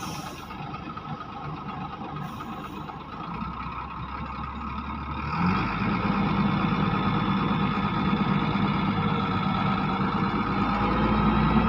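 Engine running steadily, growing louder about five and a half seconds in.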